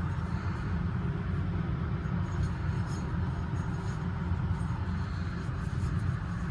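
Carrier rooftop HVAC unit running with its belt-driven blower, a steady low rumble with a faint hum over it.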